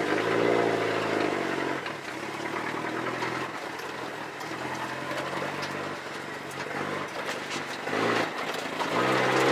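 1983 Ford Ranger pickup's engine running under way, louder and rising then falling in pitch over the first second or so, steadier and quieter through the middle, and pulling harder again near the end.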